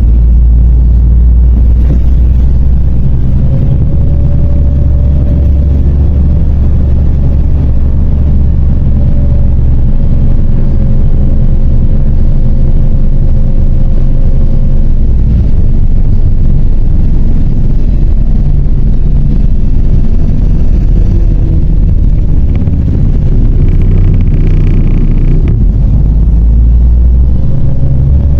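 MAZ-103.075 city bus diesel engine and drivetrain heard from inside the cabin while driving, a loud steady low rumble. A thin whine runs over it for several seconds after the start, and again near the end.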